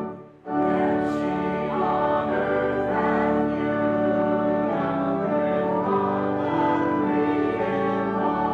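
Hymn music with held organ chords and singing voices. A brief break comes just after the start, then the music carries on.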